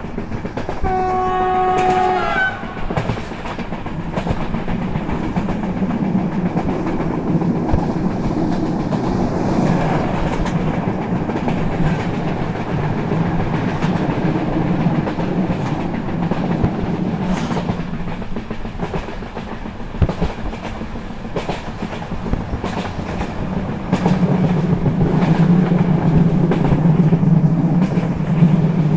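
Ride on board a moving BDZ passenger train: a steady low rumble of wheels on track with scattered rail clicks, and one train horn blast lasting about a second and a half, about a second in. The rumble grows louder near the end.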